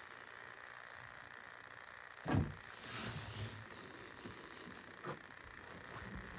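A single thump about two seconds in, followed by a brief rustle and a lighter knock a few seconds later.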